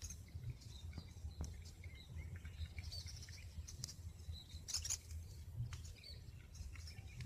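Faint outdoor ambience: small birds chirping now and then, with a few brief clicks over a steady low rumble on the microphone.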